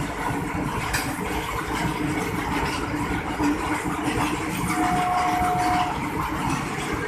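Indian Railways coal freight train hauled by a WAG-7 electric locomotive, running with a steady rumble and low hum, and a brief steady higher tone about five seconds in.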